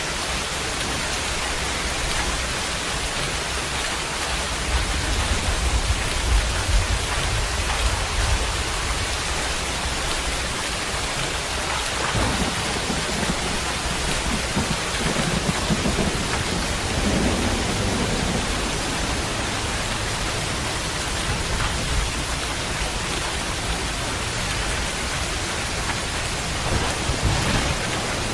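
Steady heavy rain falling, a dense even hiss, with low rolls of thunder rumbling in and out, swelling about a quarter of the way in and again near the middle.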